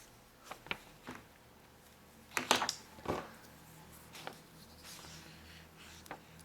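Writing by hand on paper: a few short, scratchy pen strokes with small taps of handling, the loudest cluster about two and a half seconds in.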